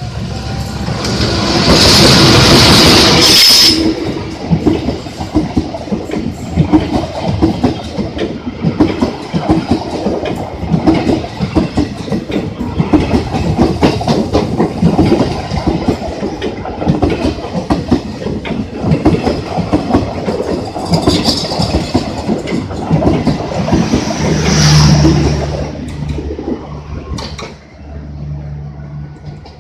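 A train passing close by, its wheels clattering over the rail joints in a quick, uneven rhythm. About two seconds in and again near the end, the sound swells into a loud rush with a high ringing tone. A steady low hum comes in near the end.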